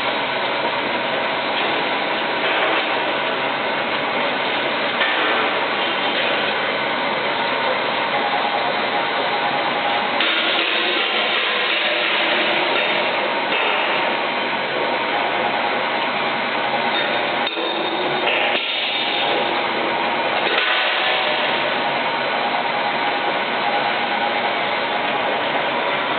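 A 24-head PET bottle rinsing machine on a bottling line running: a steady, dense mechanical clatter with many small knocks.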